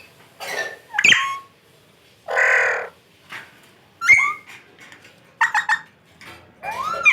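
Parrot calling in a string of short squawks and whistles, about six separate calls. A longer, harsh squawk comes near the middle, and a quick run of three or four notes comes later.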